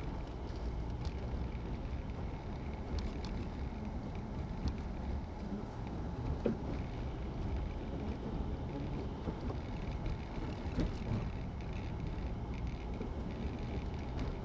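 Road and engine noise inside a moving car's cabin: a steady low rumble, with a few faint clicks.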